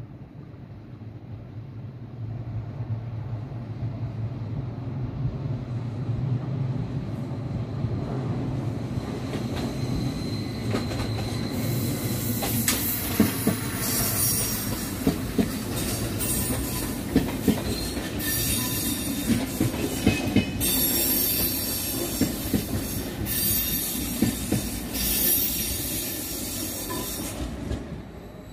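Vy class 75 (Stadler FLIRT) electric multiple unit running past on the track: a low rumble builds, then from about 12 seconds in a high squeal comes and goes several times over sharp clicks from the wheels on the rails. The sound fades near the end as the train moves away.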